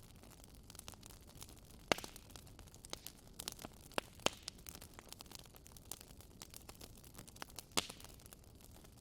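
Wood fire burning in a fireplace: a soft steady hiss with frequent small crackles and a few sharp pops, the loudest about two seconds in, two close together around four seconds, and one near the end.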